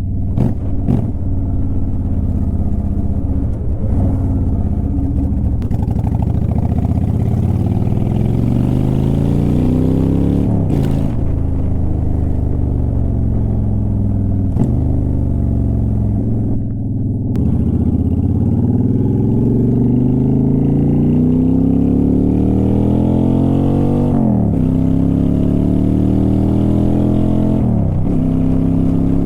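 2009 Honda Shadow Aero 750's V-twin engine running under way, its exhaust note climbing steadily in pitch and then dropping sharply at each of several upshifts.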